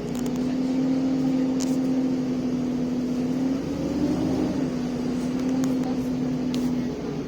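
Alexander Dennis Enviro 400 double-deck bus engine pulling under hard throttle, a steady drone that wavers briefly about four seconds in and eases a little near the end, with faint rattles.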